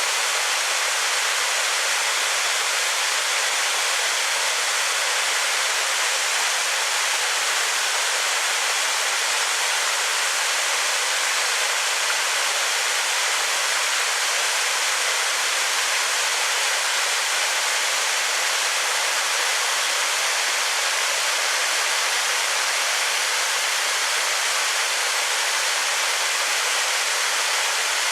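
Waterfall: a steady, even rush of falling water, strongest in the upper range with little low rumble.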